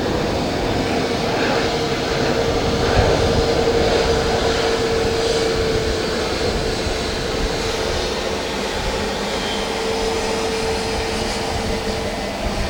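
Jet airliner's engines running close by: a steady rushing noise with a constant hum that drops slightly in pitch near the end.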